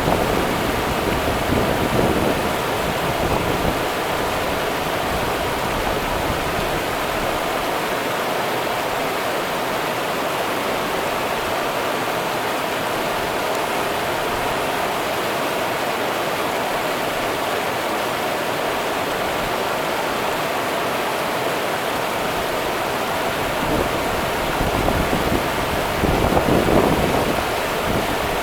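River water running over rocks in a steady rushing hiss, with low rumbling gusts of wind on the microphone near the start and again about 25 seconds in.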